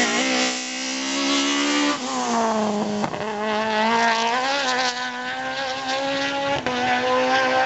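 Rally car engine at high revs under hard acceleration. Its pitch climbs and then falls sharply at gear changes, about two seconds in, again just after three seconds and near the end.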